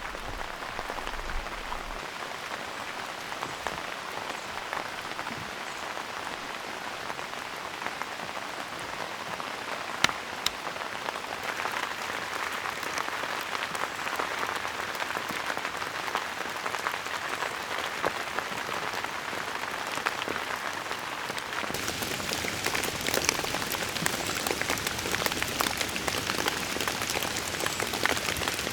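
Steady rain falling, a dense hiss with many individual drops ticking through it and one sharper drop or tick about ten seconds in. About three-quarters of the way through the rain becomes fuller and a little louder.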